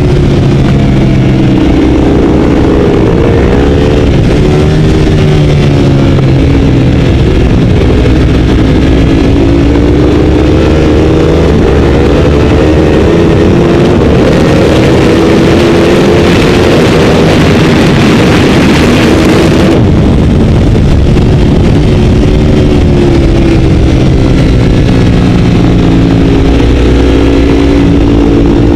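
Ducati 848 race bike's L-twin engine heard onboard at full load, its pitch climbing and dropping repeatedly as the bike accelerates and slows through the laps. About halfway through a loud rushing hiss joins it for several seconds and cuts off suddenly.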